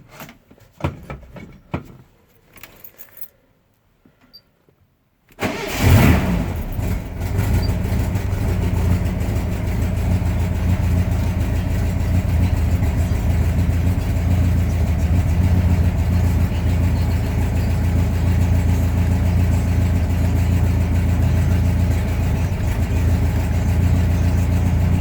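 A few faint clicks, then about five seconds in the 1972 VW Beetle's air-cooled flat-four engine fires up from a cold start after sitting two days, catching at once and settling into a steady idle.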